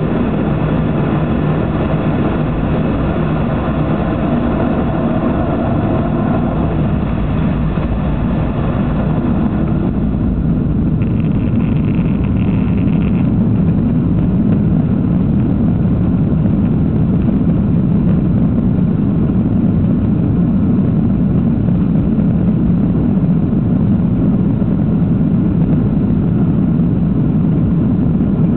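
Boeing 737-800 jet engines and airflow heard inside the cabin during take-off and climb: a loud, steady drone with several steady engine tones. About ten seconds in the higher tones fade away, leaving a deep, even rumble.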